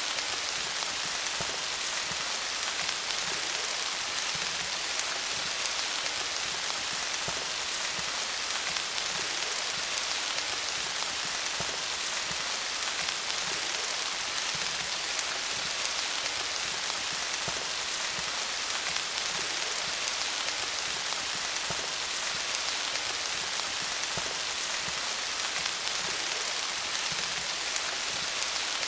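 Steady rain falling on leaves, a dense even patter of many small drop impacts.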